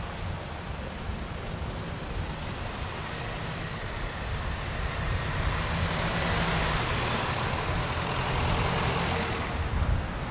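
Sea waves breaking on a sandy beach: the surf's hiss builds about midway, peaks, then falls away near the end, over a steady low rumble of road traffic.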